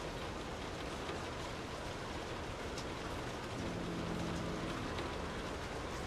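Steady rainfall pattering on surfaces, with a low pitched hum that rises in over the rain from about a second and a half to two seconds before the end and then fades.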